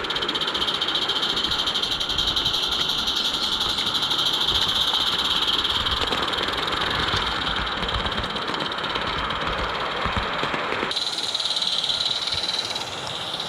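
Roundhouse Katie live-steam garden-railway locomotive running on its track, a steady hiss with fast, continuous rattling from the wheels and track. The sound changes abruptly about eleven seconds in.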